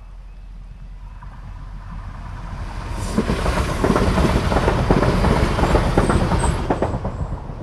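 CrossCountry Turbostar diesel multiple unit passing over a level crossing. A hum builds as it approaches, then a dense clatter of wheels over the rail joints is loudest from about three to seven seconds in, and it fades as the train moves away.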